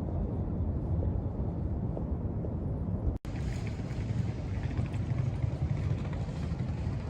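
Low, steady rumble of car engines, broken by an abrupt cut about three seconds in.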